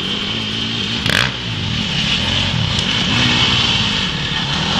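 Dirt bike engine revving up and down over and over, its pitch rising and falling about once a second, with a brief burst of noise about a second in.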